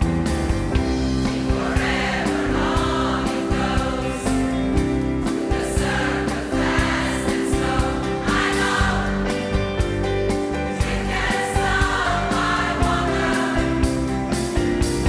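Pop choir singing in harmony, with a band accompaniment of a steady drumbeat and bass line.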